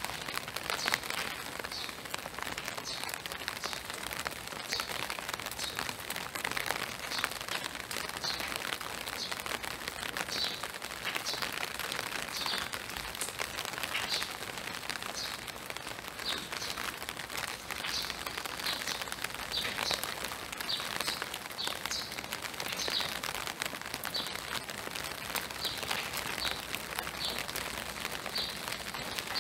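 Steady spring rain falling on trees and a wet boardwalk, with a bird giving short high chirps about once a second throughout.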